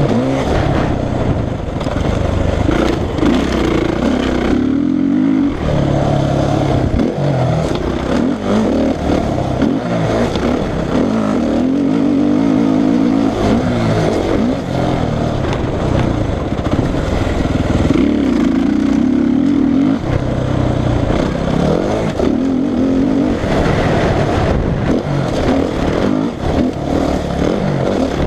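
Suzuki RM-Z450 motocross bike's four-stroke single-cylinder engine being ridden hard, its pitch rising and falling over and over as the throttle is opened and closed.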